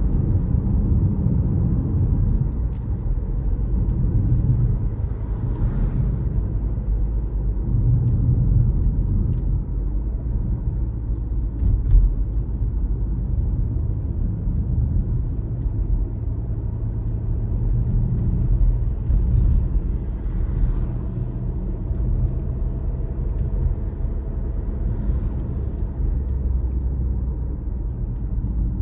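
A car driving along a road: a steady low rumble of engine and tyre noise, with one sharp knock about twelve seconds in.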